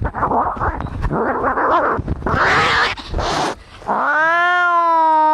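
Angry cats fighting: rough, noisy hisses and growls, then about four seconds in one long, steady drawn-out yowl.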